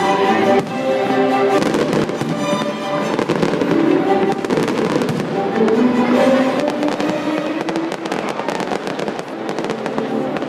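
Fireworks bursting and crackling in rapid, dense succession, over music with long held notes.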